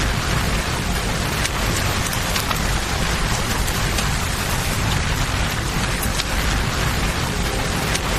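Steady rain falling, layered with a rushing river and a campfire, with occasional sharp pops and crackles.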